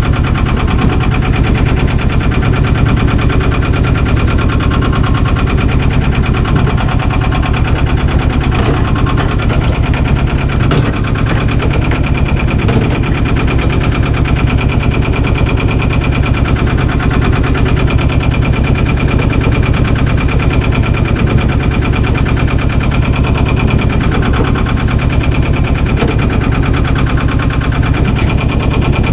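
The boat's Albin 2D inboard engine running steadily while under way, with a fast, even putter.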